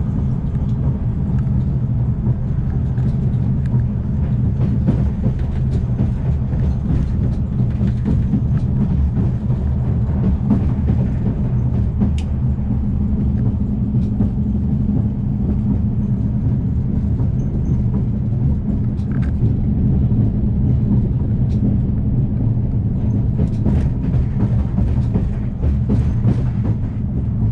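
Afrosiyob high-speed train running at speed: a steady low rumble with a hum, and scattered small clicks and rattles.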